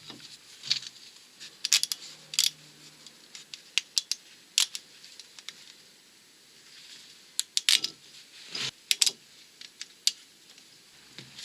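Irregular metallic clicks and light clanks of a brake disc being fitted onto the wheel hub and the parts and tools around it being handled.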